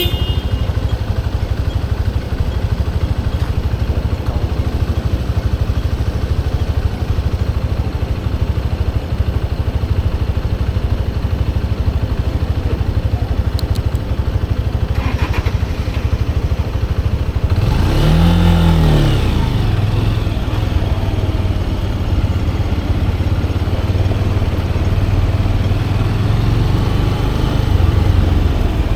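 Motorcycle engine running steadily while riding, a continuous low rumble. A little past halfway a pitch briefly rises and falls again.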